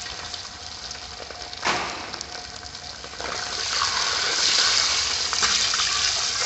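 Chopped coconut pieces sizzling in hot coconut oil in a wide metal uruli, stirred with a long ladle. There is a brief sharp sound about a second and a half in, and the sizzle grows louder about three seconds in.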